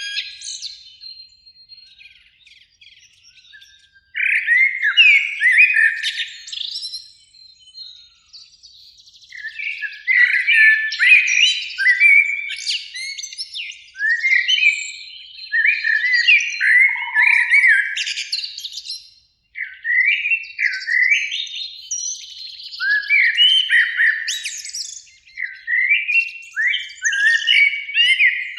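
Eurasian blackbirds singing: fluting, warbled phrases, each often ending in a higher twitter, repeated every second or two after a lull near the start.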